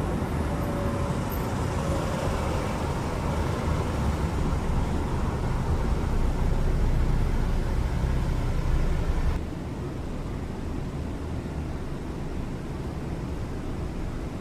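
Steady low rumble of road traffic noise, dropping suddenly to a quieter steady hum about nine seconds in.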